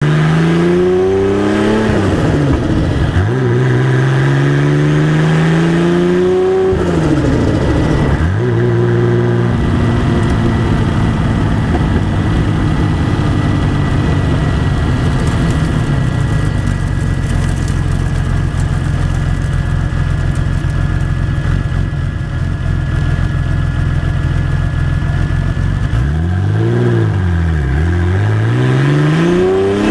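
BMW E30's turbocharged M20 straight-six on individual throttle bodies, heard from inside the cabin. It is revved up and down several times, settles into a steady idle, then is revved twice more near the end.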